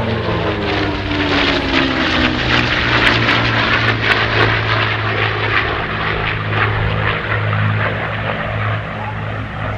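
Two P-51D Mustangs' Merlin V-12 engines during a formation pass. The engine note drops in pitch over the first couple of seconds as they go by, and it is loudest a few seconds in.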